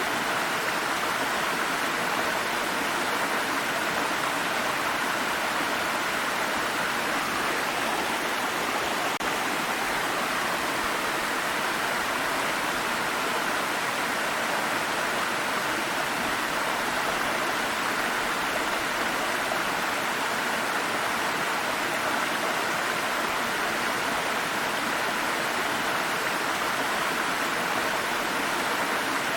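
Water stream flowing over rocks: a steady, even rush of running water that does not change.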